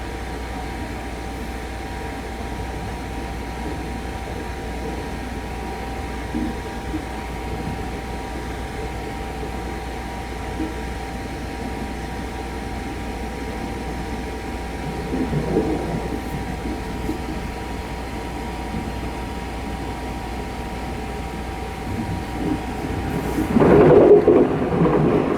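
Running noise of the Sunrise Izumo sleeper train, a 285-series electric multiple unit: a steady low rumble with a few steady hums, swelling louder about fifteen seconds in and again near the end.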